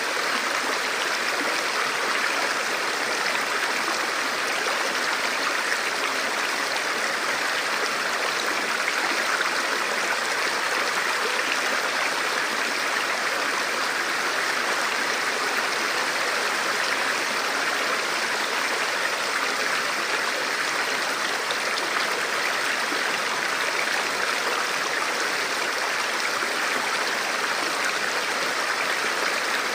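River water flowing over rocks, a steady, even rush with no breaks.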